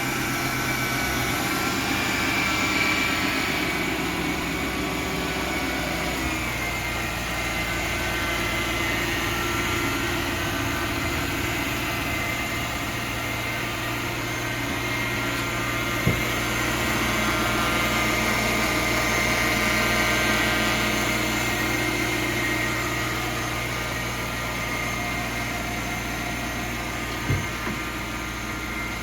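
Mercedes-Benz M273 5.5-litre V8 idling steadily, with two short clicks about halfway through and near the end.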